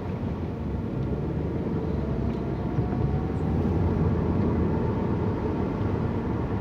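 Steady engine and road rumble heard inside a moving car's cabin, with a faint whine that rises slowly through the middle.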